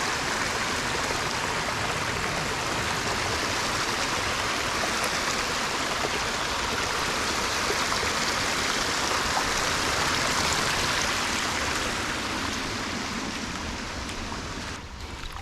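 Small creek's water running steadily, a constant rushing hiss that fades somewhat near the end.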